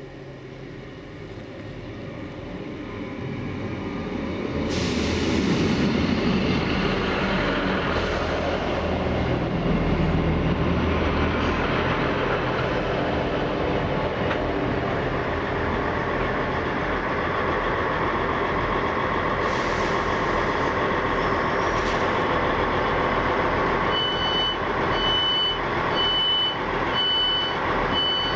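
Three Class 66 diesel locomotives with two-stroke V12 engines approaching and passing close by. Their engine noise builds over the first few seconds, then runs loud and steady. Near the end come five short high beeps, about one a second.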